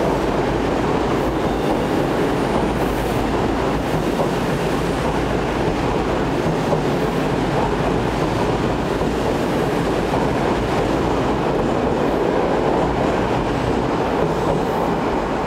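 Odakyu electric commuter train pulling out of an underground station platform and running past: a steady rumble of wheels on rails, echoing in the station.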